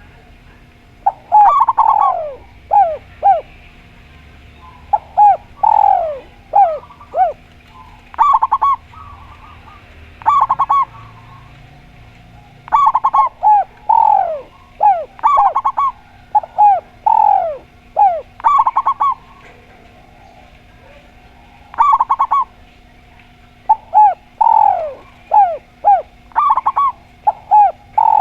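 Doves cooing in repeated phrases of short falling notes, a phrase every second or two, over a faint steady hum.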